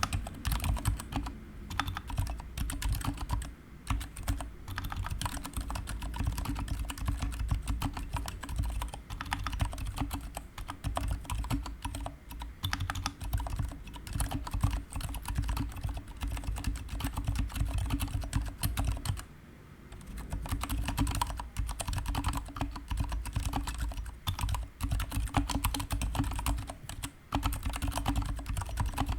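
Continuous typing on a GK61 mechanical keyboard with stock, unlubricated Gateron silent brown switches and PBT pudding keycaps: a dense run of keystrokes with a brief pause about two-thirds of the way through.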